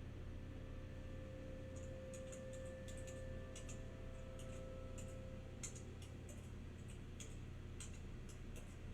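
Light, sharp clicks at roughly two a second, slightly uneven, like tapping or typing, starting about two seconds in over a low steady hum. A faint held tone fades out about halfway through.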